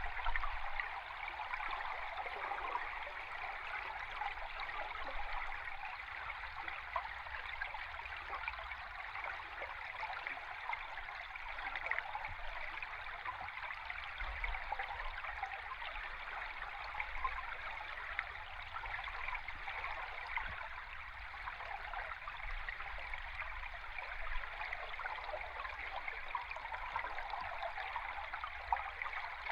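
River stream recorded underwater with a hydrophone: a steady rushing, crackling hiss of flowing water and bubbles, with a faint low rumble beneath.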